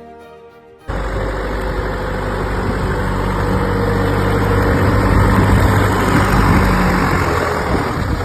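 Faint music, then about a second in a loud engine rumble cuts in abruptly and runs on steadily at an even low hum: a motor vehicle's engine running.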